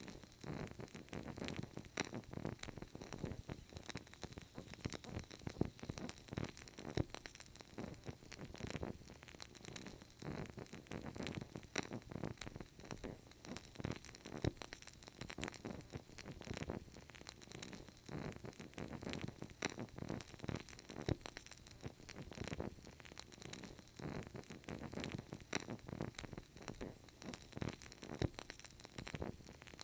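Burning candle crackling: a continuous run of small, irregular crackles and pops.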